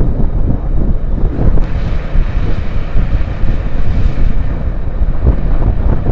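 Wind buffeting the microphone of a motorcycle rider at speed: a loud, unsteady low rumble.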